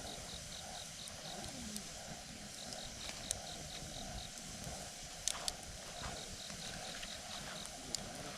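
Wood campfire burning with a steady hiss and occasional sharp pops and crackles, a few of them standing out about three, five and eight seconds in.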